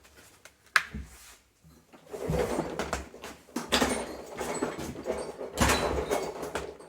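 Recoil starter of a Homelite i625cd petrol trimmer being pulled on full choke, three rasping pulls about a second and a half apart, without the engine catching.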